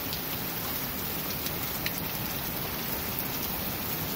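Heavy rain falling steadily, a constant even hiss with a few faint drip ticks.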